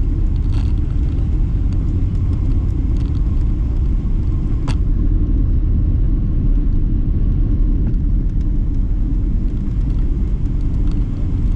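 Low, steady rumble in the cabin of a Boeing 777-300ER rolling on the ground after landing, with a sharp click a little under five seconds in.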